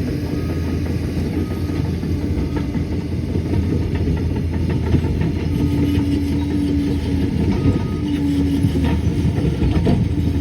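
Liebherr PR 746 crawler dozer working: a steady diesel engine drone with clicking and clanking from its steel tracks, and a few short high beeps.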